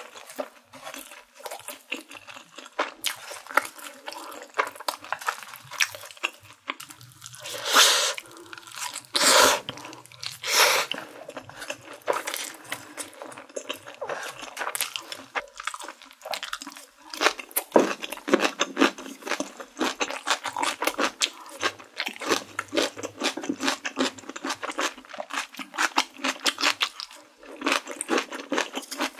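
Close-miked chewing and crunching of spicy stir-fried instant noodles, a dense run of small wet clicks, with a few louder noises around eight to eleven seconds in.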